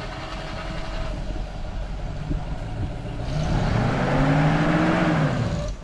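GAZ-66 truck's V8 petrol engine running under load. About three seconds in it revs up, climbing in pitch, then drops away just before the end. It is labouring in what is called a wrongly chosen gear.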